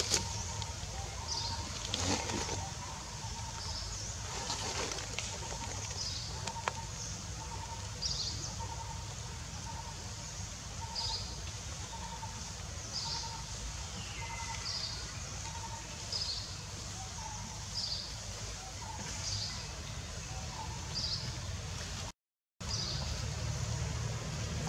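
A bird repeating a short high call about once a second over a steady low rumble.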